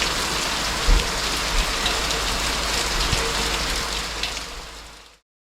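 Heavy rain pouring down in a storm, with gusts of wind buffeting the microphone and one louder knock about a second in. The sound fades out sharply near the end.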